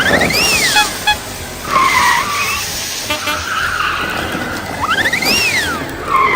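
Looped race-car sound effects: a short tyre screech and a high engine whine that rises and falls, repeating about every three and a half seconds.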